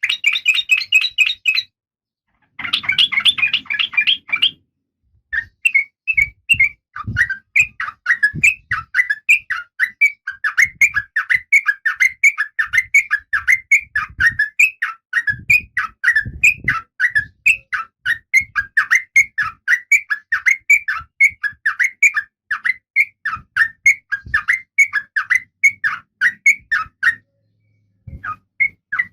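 Female Oriental magpie-robin (kacer) calling, the calls of a female in breeding condition. A quick run of high chirps is followed by a short harsh chatter, then a long fast series of short whistled notes at about four a second. Each section cuts off abruptly into silence.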